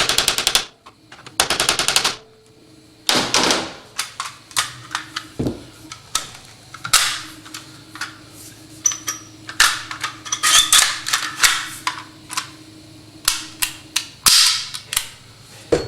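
Bursts of rapid clicking alternate with many sharp single taps and knocks. A faint steady hum runs through the middle.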